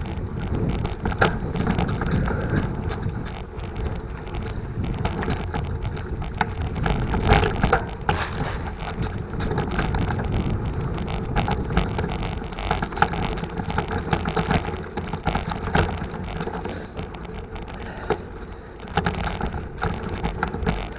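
Forward mountain bike being ridden: a continuous low rumble of tyres and wind, with frequent small rattles and knocks from the bike throughout.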